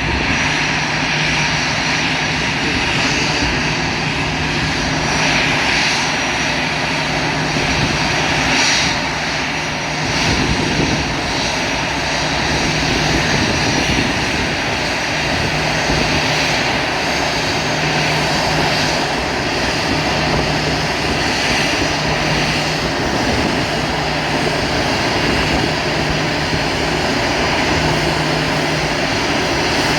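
Airbus A320-214 jet engines running steadily, a loud continuous rush with a low hum that comes and goes.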